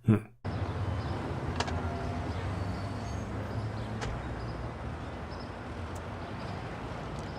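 Steady vehicle engine and road noise with a low hum, starting about half a second in, with a few faint clicks.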